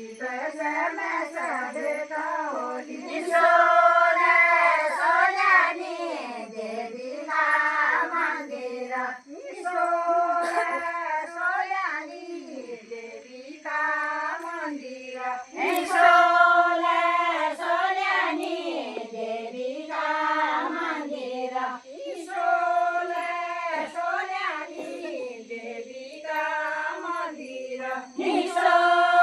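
Voices singing a folk song in short, repeated melodic phrases of a second or two each, with wavering held notes and brief breaks between phrases.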